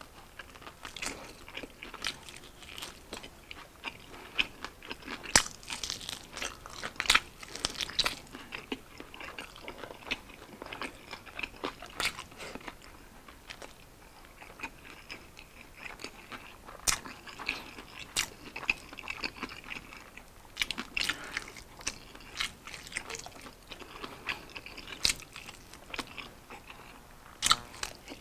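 Close-up eating of sauced fried chicken wings: irregular crunching, biting and chewing. The sounds thin out for a few seconds in the middle, then pick up again with a fresh bite near the end.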